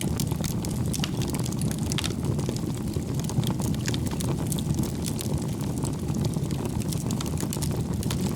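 Wood fire burning in a fireplace: a steady low rumble of flames with frequent, irregular sharp crackles and pops from the burning wood.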